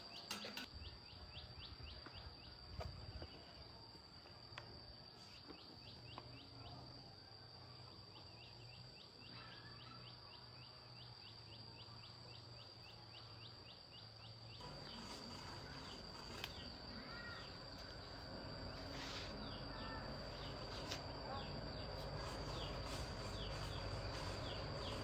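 Faint outdoor ambience of insects: short high chirps repeating quickly over a steady high-pitched whine, with a few bird calls in the second half.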